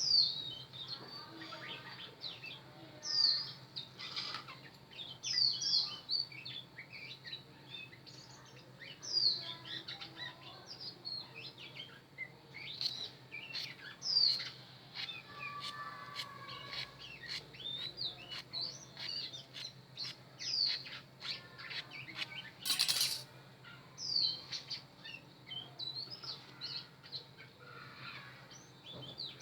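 A bird chirping over and over: short, high, falling notes every second or two. Light clicks are scattered through it, and there is a brief hiss about 23 seconds in.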